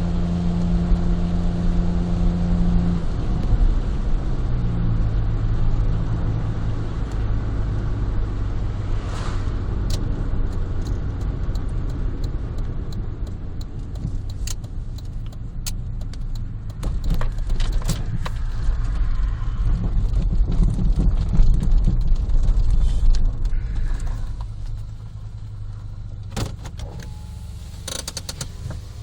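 Honda Life JB5's three-cylinder engine through an aftermarket Rosso Modello GT-8 muffler, heard from inside the cabin with a window open, running steadily at low speed; its note drops lower after about three seconds. Near the end it gets quieter, with scattered clicks and rattles.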